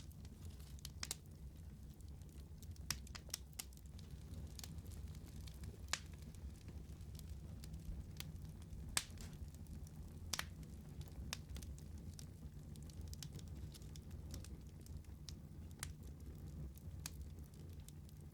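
Wood fire crackling in a fireplace, with scattered sharp pops over a steady low rumble of the flames.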